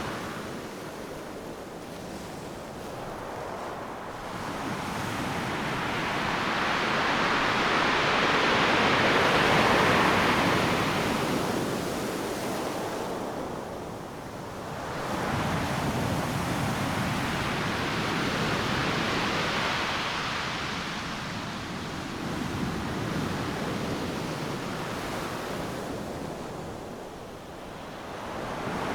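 Ocean surf breaking on a beach: a steady wash of noise that swells as each wave crashes and ebbs between them, with the biggest surge around a third of the way in and lulls about halfway and near the end.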